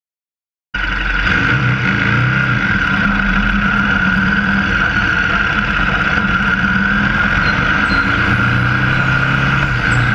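Riding noise from a KTM 1190's V-twin motorcycle engine running at a steady speed, under loud wind rushing over the microphone in a storm. It starts suddenly about a second in.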